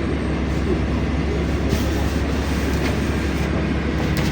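Inside a moving LiAZ-5292.65 city bus: a steady low engine and drivetrain drone under road and tyre noise, with a couple of brief rattles.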